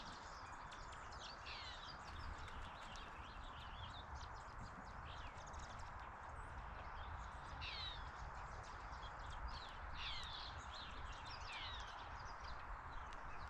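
Small birds chirping: short, quick falling chirps repeated every second or so, over a steady outdoor background hiss and low rumble.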